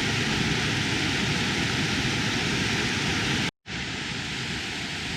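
Cascading mountain waterfall rushing in a steady roar of falling water. It breaks off for an instant about three and a half seconds in and resumes a little quieter.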